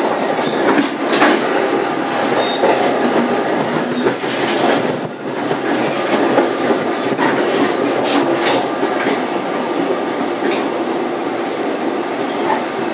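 A passenger rail coach in motion, heard from inside: the steady rumble of steel wheels on the rails, with scattered sharp clicks and knocks over the track.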